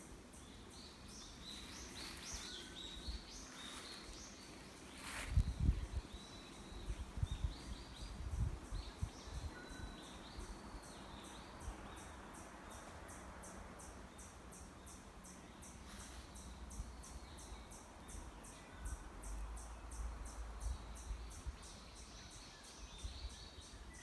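Forest ambience: wild birds chirping and calling, short high calls repeating, over a steady, fast, high-pitched pulsing. Low thuds and rumbles come about six to nine seconds in and again near the end.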